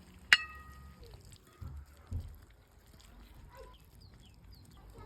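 A single sharp metallic clink with a short ring about a third of a second in, then two dull low knocks around two seconds in, with faint bird chirps in the background.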